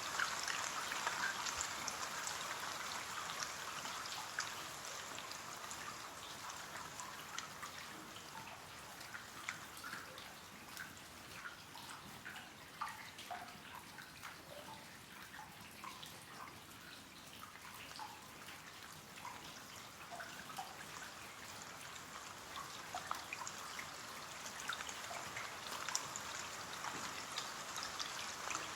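Rain falling on a window: a steady hiss of rainfall with many separate drops tapping and dripping. It eases a little in the middle and grows heavier again near the end.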